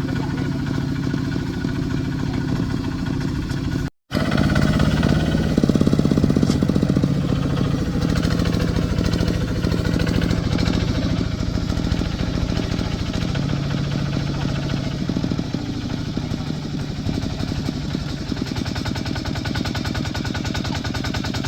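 Tractor diesel engine running steadily with a rapid, even chugging beat, with a brief dropout about four seconds in.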